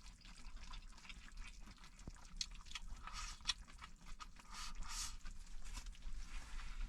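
Faint small clicks and scrapes with two short swells of hissing: meat and cabbage being stirred and sizzling in a pan on a small stove.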